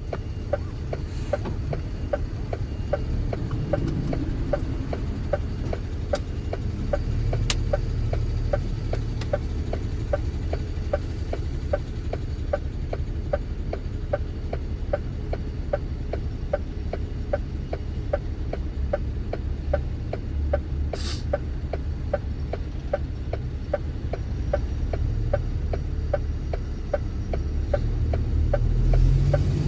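Truck engine running with a steady low rumble, overlaid by an even ticking of about two to three ticks a second.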